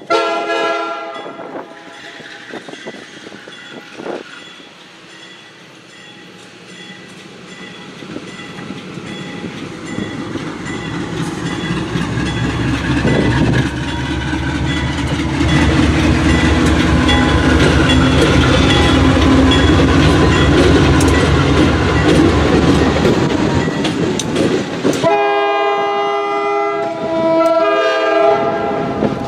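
GE B40-8 diesel locomotive leading a train past: a short blast of its multi-chime air horn at the start, then the engine and train growing loud with wheels clacking over rail joints. The horn sounds again as a sustained chord of several notes about four seconds before the end.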